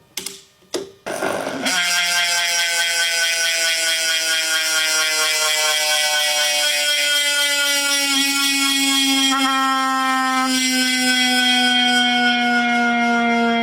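A bicycle freehub buzzing as a spun wheel coasts, a steady ratcheting drone whose pitch falls slowly as the wheel slows, after a couple of short clicks at the start.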